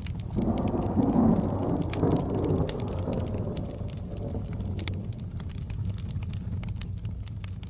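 A roll of thunder swells in about half a second in, is loudest a second or two later and dies away over a few seconds, over steady rain and the sharp pops and crackles of a wood fire.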